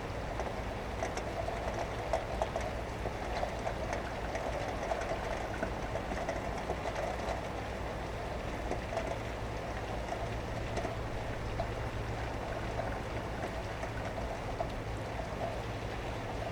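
Steady rain falling, with scattered faint drips and a steady low hum of distant traffic that grows a little stronger about halfway through.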